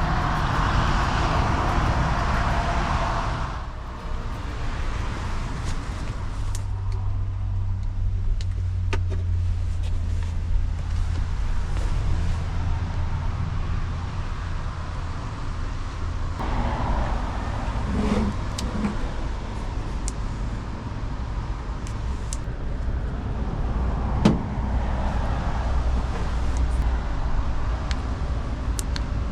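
Daihatsu Hijet Cargo kei van with its small 660 cc three-cylinder engine running, a steady low rumble with scattered sharp clicks.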